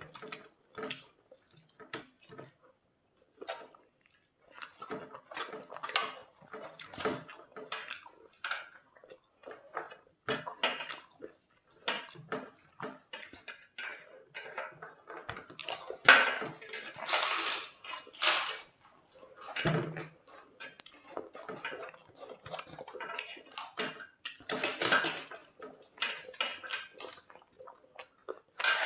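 Eating sounds: wet squelching of curried food being mixed and chewed, with scattered clinks of dishes, in short irregular bursts that grow louder for a few seconds in the middle.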